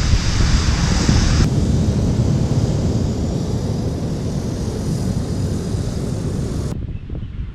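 Wind buffeting the microphone on a seashore: a steady low rumble with a hiss above it, the hiss dropping away suddenly about a second and a half in and again near the end.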